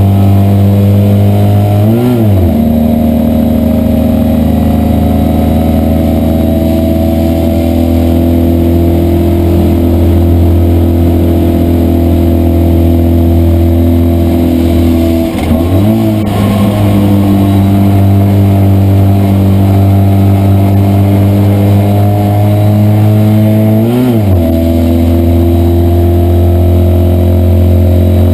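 Citroën 2CV race car's air-cooled flat-twin engine running hard under race load, heard from inside the cabin. The engine note breaks and shifts sharply three times, about 2, 16 and 24 seconds in, as gears change.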